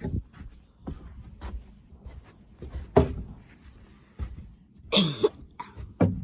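A person coughing a few times in short, sharp bursts, the loudest about three seconds in, with fainter clicks between them.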